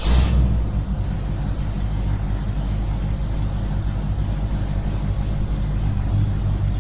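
A small engine running steadily at a constant speed, opening with a brief burst of noise.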